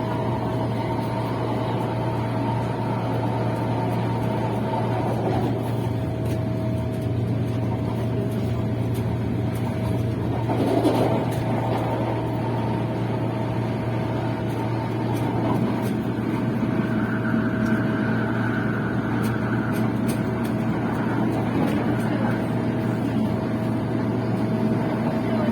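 Passenger train running, heard from inside the carriage: a steady rumble with a constant low hum and a held tone above it, swelling briefly louder about eleven seconds in.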